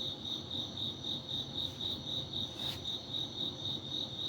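A cricket chirping steadily: one high-pitched chirp repeated evenly, about five times a second.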